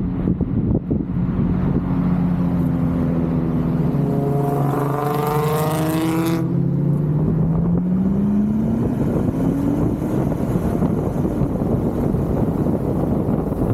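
V8 muscle car engine running loud. Midway there is a louder burst of engine noise whose pitch glides down, and it cuts off suddenly. Then the engine pitch climbs as the car accelerates.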